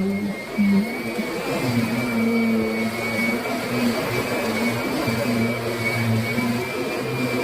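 Kirby Sentria upright vacuum cleaner running, with a steady high whine over a lower hum that keeps shifting in pitch and level.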